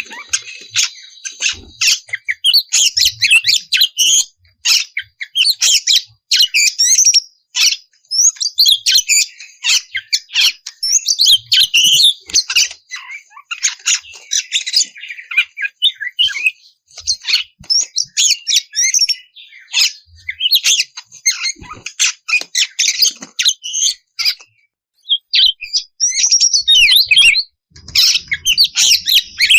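Oriental magpie-robin singing in a fast, unbroken stream of varied whistles, chirps and harsh rasping notes, with two short pauses a few seconds before the end.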